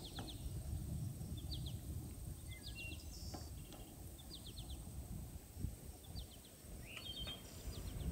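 Small songbirds chirping, short groups of three or four quick high notes repeated every second or so, over a low background rumble.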